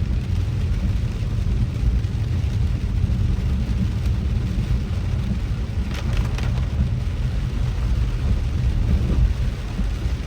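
Rain falling on a moving car, heard from inside the cabin over a steady low rumble of the car driving.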